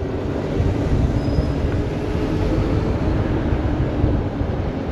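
Wind buffeting the microphone and road noise while riding an e-bike on knobbly off-road tyres: a steady rumble with a faint hum over it.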